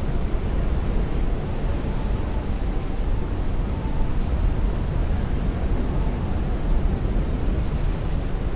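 Heavy rain beating on a window with strong wind rushing, a steady, even noise weighted toward the low end.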